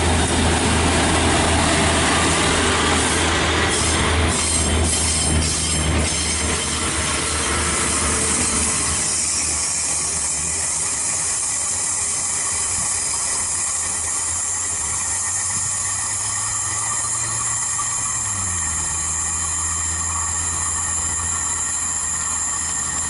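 Class 142 Pacer diesel unit pulling away, its engine drone loud at first, then its wheels flanging with a high, steady squeal as it takes the curve. The engine note drops about three-quarters of the way through.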